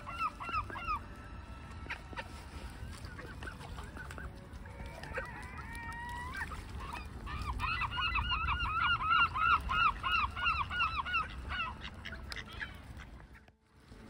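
A bird calling in rapid series of short, arched whistling notes, about four a second. One series trails off about a second in, a single longer gliding call comes near the middle, and a louder series runs from about seven to eleven and a half seconds in, over a low rumble.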